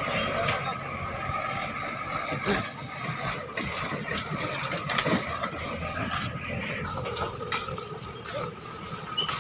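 Tractor engine running steadily, with scattered clicks and knocks over it.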